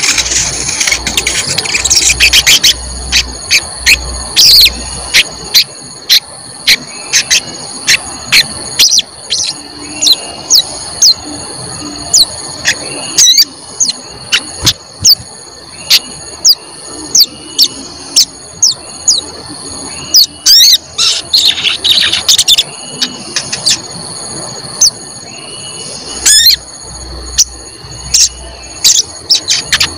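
A sogon songbird calling a fast, repeated "cuit cuit" of sharp, very short chirps in clusters, the kind of song used as a lure recording to set other sogons singing. A steady high whine runs underneath.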